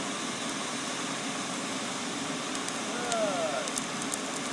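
Steady roar of the running iron-melting furnace at a tap. A faint voice rises over it about three seconds in, and a few short clicks follow near the end.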